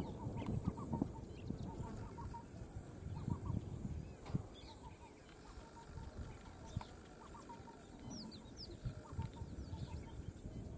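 Birds calling in short, repeated clucking notes, with a few higher chirps, over low rustling and soft thumps.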